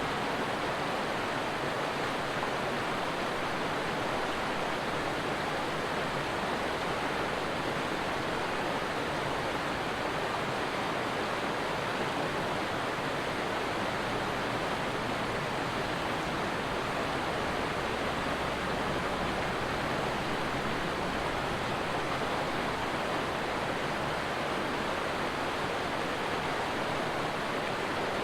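A stream of water rushing and babbling, a steady, even flow with no breaks.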